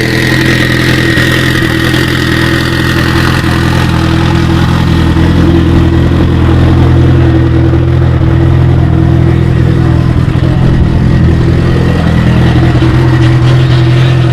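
Car engine running loudly and steadily at a near-constant speed, close up.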